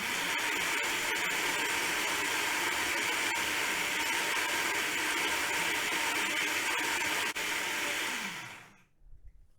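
Electric blender running steadily, blending fresh ginger with Shaoxing wine, then switched off about eight seconds in and winding down with a falling whir.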